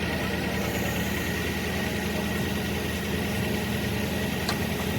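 An engine running steadily at an even idle: a low hum with a thin steady whine above it, and a single sharp tick near the end.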